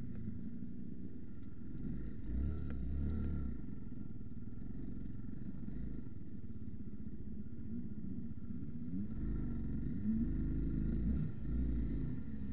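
Vehicle engine running while driving, its revs rising and falling.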